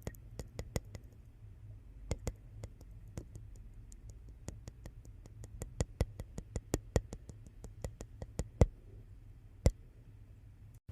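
Wood fire in a fireplace crackling: irregular sharp pops over a low steady rumble, with one louder pop near the end.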